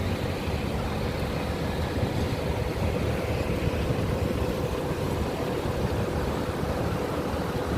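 Intercity bus engine running steadily, a constant low rumble with a faint steady hum on top.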